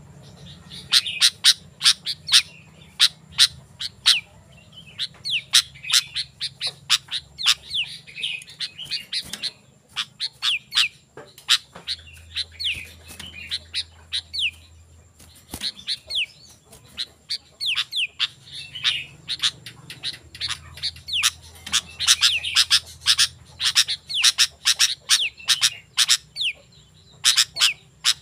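Sooty-headed bulbul (kutilang) singing vigorously: a dense run of short, sharp chirps and down-slurred whistles, with a few brief pauses.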